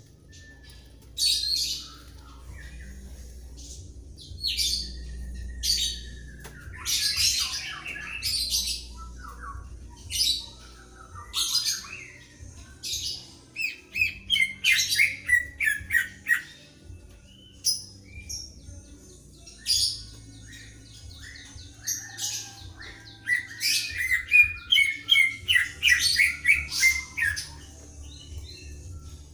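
Greater green leafbird and white-rumped shama singing in alternation: loud, sharp whistled phrases and chirps, with fast runs of notes about halfway through and again near the end.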